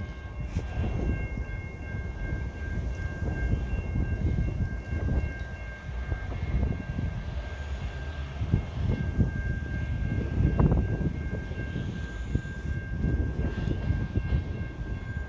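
Two EMD diesel road-switcher locomotives, a GP38-2 and a GP40-2W, running with a steady low rumble, with faint steady high-pitched tones above it.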